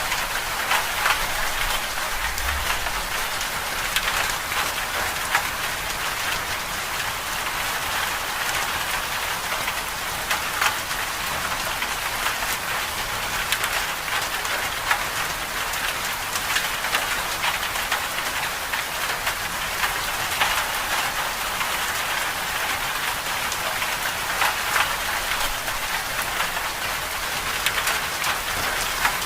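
Winter storm ambience: a steady, dense patter of precipitation on a surface, with many small ticks over an even hiss.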